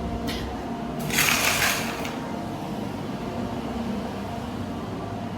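A brief faint scrape, then a louder rustling or sliding noise lasting about a second, over a steady low hum.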